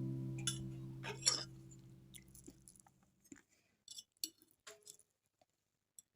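An acoustic guitar's last chord ringing out and fading away over about three seconds, with a scatter of short crunchy clicks, the loudest about a second in, and a few more after the chord has died.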